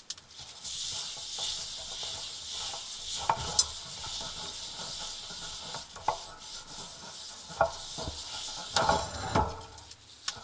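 Olive oil sizzling with a steady hiss as it heats in a cast iron pan being re-seasoned on a wood stove, with a few scattered knocks and a short clatter near the end.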